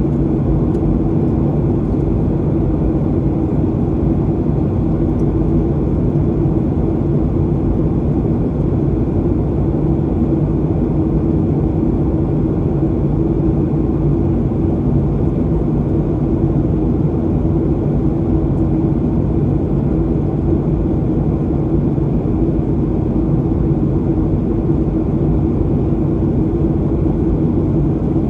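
Steady cabin noise inside a Boeing 737-800 on final approach: the even drone of its CFM56 engines and the airflow past the fuselage, with a constant low hum and no change in level.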